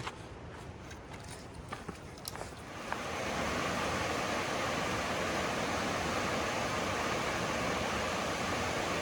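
Footsteps crunching on rocky ground for about three seconds, then the steady rushing of a creek or waterfall rises and holds.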